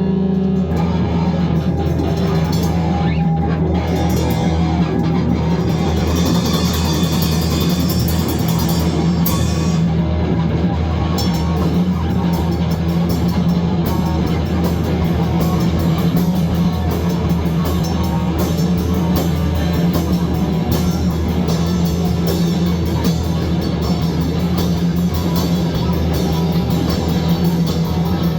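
Loud rock music with drum kit and guitar, playing without a break.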